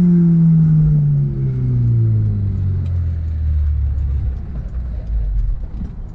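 Honda S2000 inline-four engine with its revs falling steadily over about five seconds as the car slows after a hard pull, settling into a low rumble near the end.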